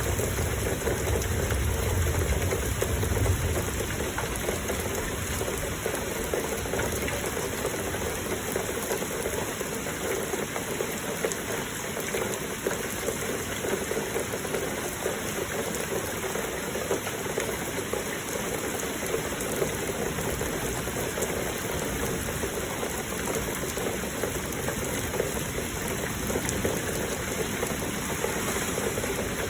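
Heavy rain falling steadily with flowing water, a constant rushing hiss. A low rumble sits under it for the first few seconds.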